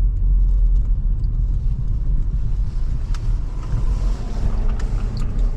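2005 Toyota Highlander driving on a snowy, slushy road: a steady low rumble of road and drivetrain noise, with a hiss of tyres through wet slush swelling up in the second half and a few faint ticks near the end.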